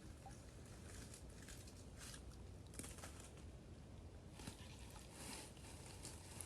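Faint dry autumn leaves rustling in short, irregular bursts over a quiet, steady outdoor background.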